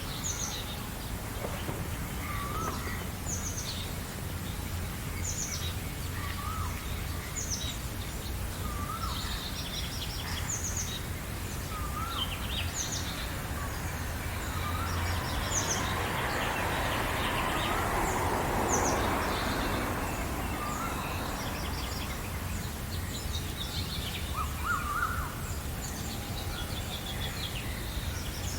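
Several songbirds singing in a morning chorus: one bird repeats a short wavy whistled note every two or three seconds, over many quick high chirps from others. A rushing swell of noise rises and falls in the middle, with a steady low rumble underneath.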